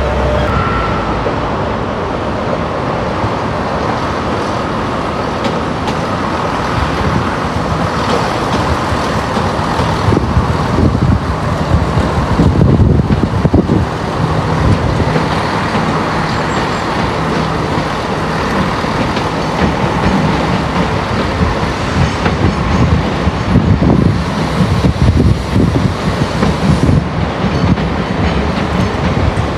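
A train running through the station, with steady running noise and irregular clatter of wheels over rail joints and points. The clatter grows busier about ten seconds in and again near the end.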